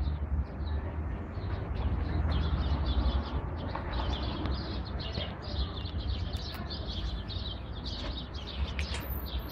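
Small birds chirping many times in quick, irregular succession, over a steady low rumble.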